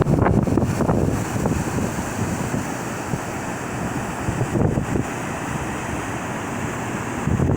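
Steady rush of open water with wind buffeting the microphone, gustier and louder in the first second and again near the end.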